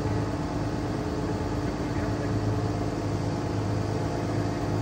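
Engine running steadily at a constant speed, a continuous low drone that holds one pitch throughout.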